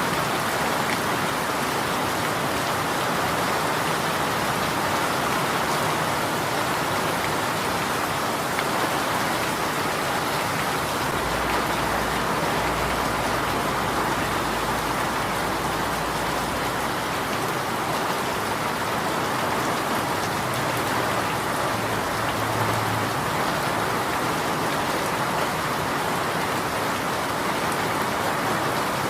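Steady rain falling and pattering on a surface, an even continuous hiss of many drops, with a faint low rumble in the middle.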